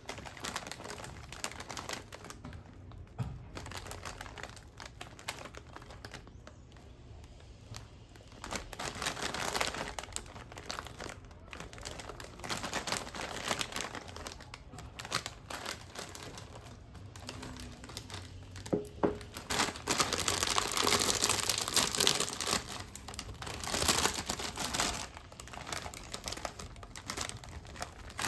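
Plastic snack bag crinkling as it is handled, in irregular rustling bursts that grow denser and louder about two-thirds of the way through.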